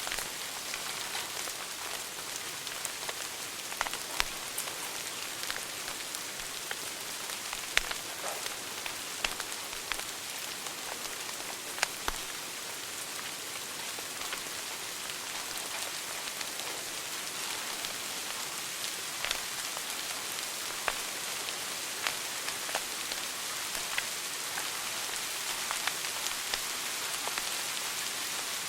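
Wood fire burning in a fireplace: a steady hiss with sharp crackles and pops scattered irregularly throughout, the loudest about 8 and 12 seconds in.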